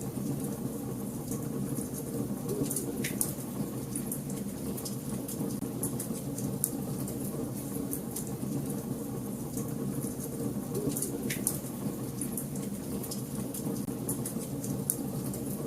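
Wood fire burning in a fireplace: a steady low rumble of flames under frequent small crackles and pops, with two sharper snaps about three seconds in and again about eleven seconds in.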